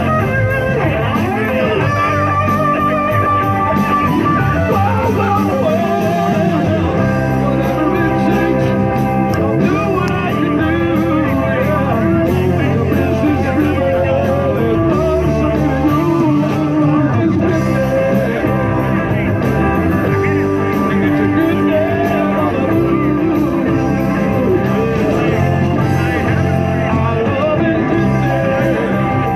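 Blues-rock band playing, with guitar prominent and a bending melodic line over a steady band backing.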